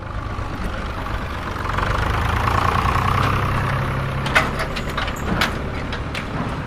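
A mini tractor's motor running steadily, its hum growing louder to a peak about halfway through and then easing off, with a few sharp clicks about four to five seconds in.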